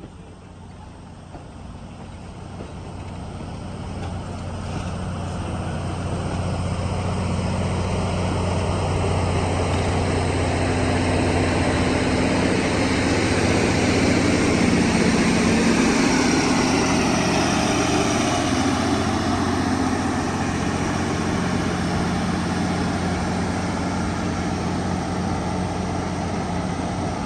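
Two geared steam locomotives, a Shay and a Heisler, working a train together with fast exhaust beats. It grows steadily louder as they approach, is loudest about halfway through, then eases a little.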